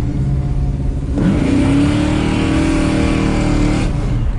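Restomod 1970 El Camino's roughly 500-horsepower engine under hard acceleration. It runs steadily at first; about a second in the revs jump and it pulls hard, its pitch climbing slowly, then it eases off near the end.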